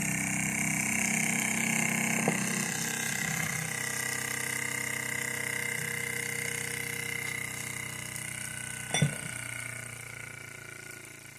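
Homemade Polly model steam engine running with a steady mechanical hum that sinks slightly in pitch and grows quieter toward the end. A sharp click comes about nine seconds in.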